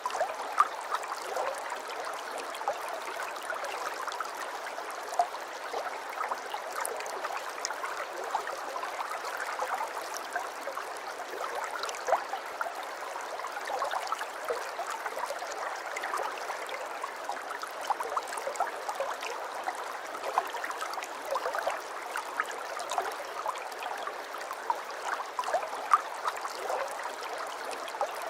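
Aquarium water trickling and bubbling steadily, with a constant stream of small plinks and splashes.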